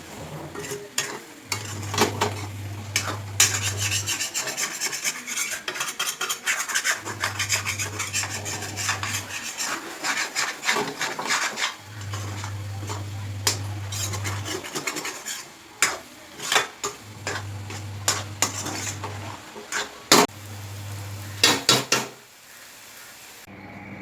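A spatula scraping and stirring egg masala in a cooking pan, in a quick, busy run of scrapes and taps that thins to scattered knocks in the second half.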